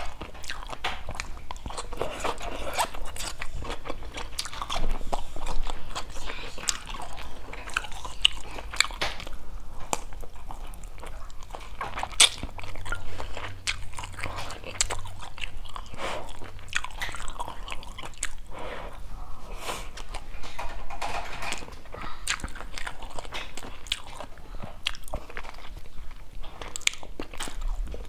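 A person chewing and crunching mouthfuls of rice with stir-fried green beans, with many crisp bites and wet chewing sounds throughout.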